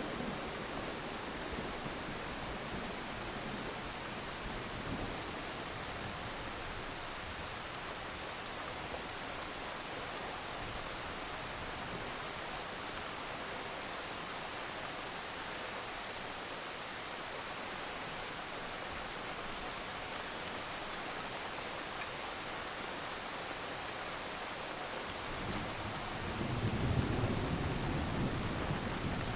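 Steady rainfall, an even hiss of rain. Near the end a low rumble of distant thunder swells up and stays.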